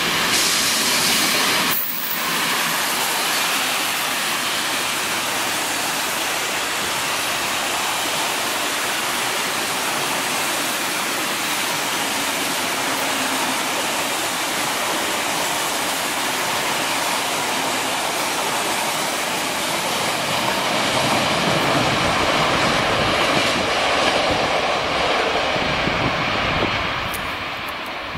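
Freight train hauled by an NSB El 14 electric locomotive passing at speed: a loud rush as the locomotive goes by at the start, then the steady rolling noise of the freight wagons, which eases off near the end as the train passes.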